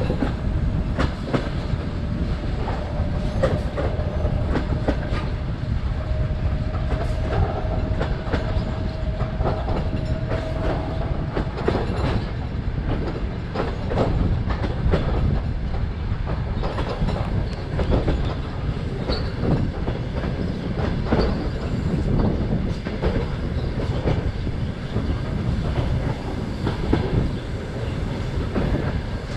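Ukrainian Railways sleeper train running along the line, heard from an open carriage window: a steady low rumble with the wheels clattering irregularly over rail joints. A faint steady whine runs under it for roughly the first ten seconds.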